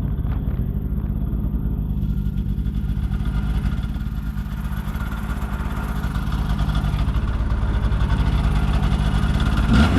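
Polaris snowmobile engine running steadily at low speed, a dense low pulsing drone that grows a little louder in the second half.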